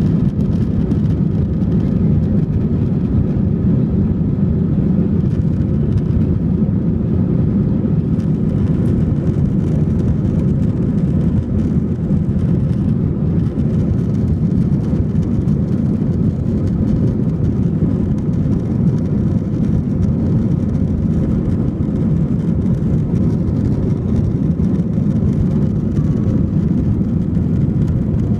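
Airliner cabin noise: a steady low rumble of the jet engines and airflow, even in level throughout.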